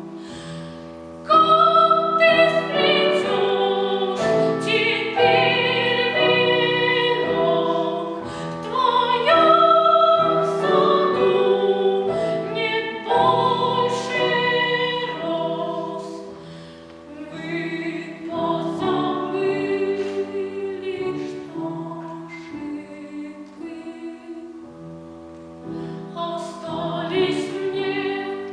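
A child soloist singing in classical academic style with vibrato, over piano accompaniment.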